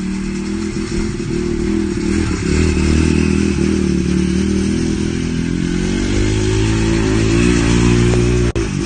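Yamaha TT-R125 air-cooled four-stroke single-cylinder engine running on a lawn mower, getting louder over the first few seconds and changing engine speed a couple of times. The sound breaks off briefly near the end.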